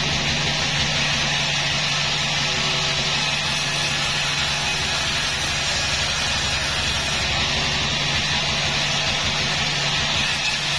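Sawmill machinery running steadily: a constant engine drone with an even rush of noise over it.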